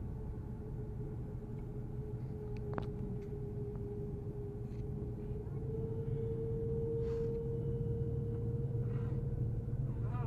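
Cabin noise inside an Airbus A330-343 on the ground after landing: a steady low rumble with a steady whine that rises slightly and grows louder about six seconds in, and a few faint clicks.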